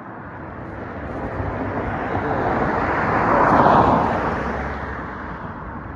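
A vehicle passing close by: its noise swells to a peak about three and a half seconds in, then fades away.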